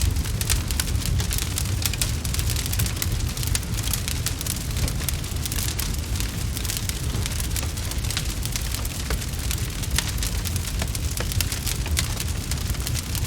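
Crackling fire: a dense, steady run of small sharp pops and snaps over a constant low rumble.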